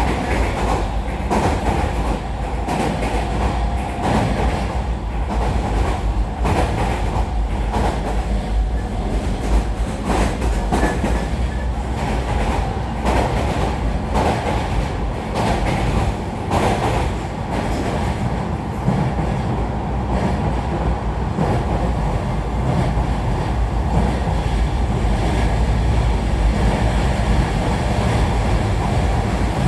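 Running sound heard inside the motor car of a JR Kyushu 305 series electric train under way. Steady wheel-on-rail noise, with irregular clicks as the wheels pass over rail joints.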